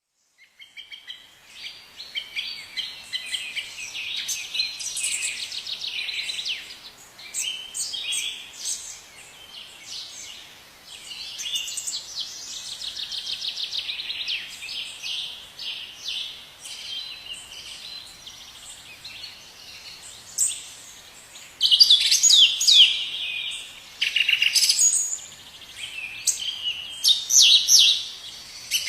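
Birds chirping and singing: a run of high chirps and fast trills from several small birds, with louder bursts near the end.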